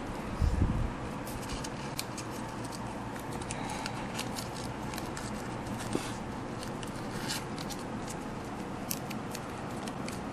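Hand crafting work on small model parts: scattered light clicks and snips, with a soft low thump about half a second in.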